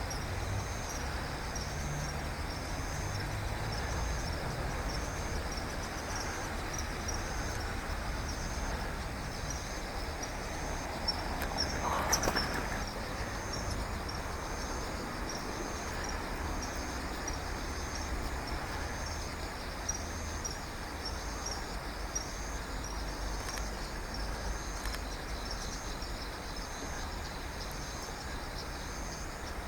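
An insect chirping in an even rhythm, high-pitched and about once a second, over a steady low rumble. A brief louder rush of noise comes about twelve seconds in.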